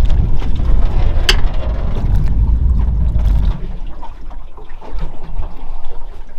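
Water splashing and trickling around a small fishing boat, with wind buffeting the microphone until it drops away about three and a half seconds in, and one sharp knock about a second and a half in.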